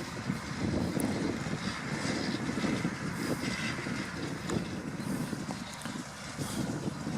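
New Holland T7.235 tractor working with a CLAAS Liner rotary rake in tow: a steady engine rumble with a few faint clicks and rattles.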